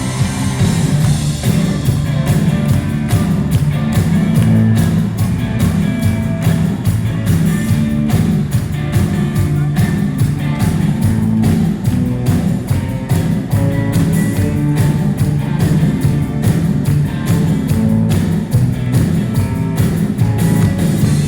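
Rock band playing an instrumental song intro: a steady drum beat over a driving bass line with guitar.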